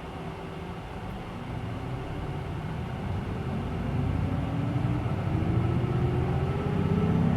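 Hino Blue Ribbon City Hybrid bus's diesel engine, heard from inside the cabin, revving up as the bus accelerates. Its pitch rises steadily and it gets louder from about two seconds in.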